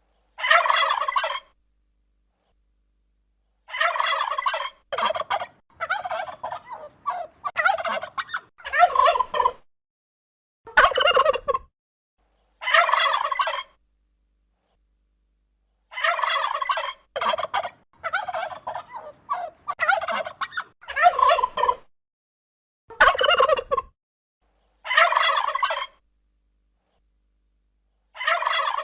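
Turkey gobbling over and over: rattling gobbles about a second long, separated by pauses of a second or two, with runs of several in quick succession around the middle.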